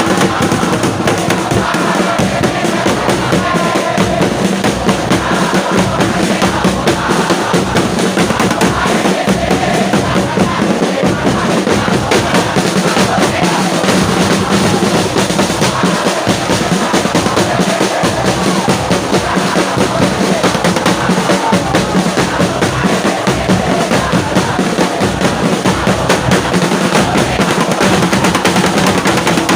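Football supporters' drums beating a steady rhythm while a large crowd in the stands sings and chants along, loud and unbroken.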